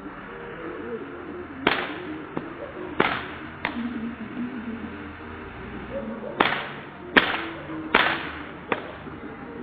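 A series of about seven sharp cracks at irregular intervals, the loudest near the middle and end.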